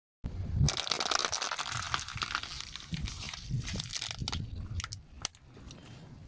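A car tyre rolling over and crushing something brittle: a dense crackling crunch for about four seconds, thinning to a few scattered sharp cracks near the end.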